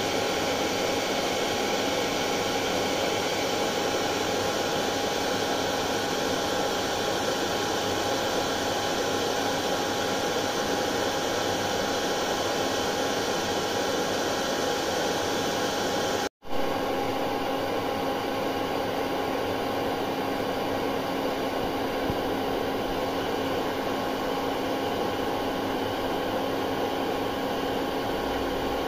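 Hair dryer running steadily, a dense, even rushing hiss with a steady whine in it. It cuts out for a split second about sixteen seconds in, then carries on.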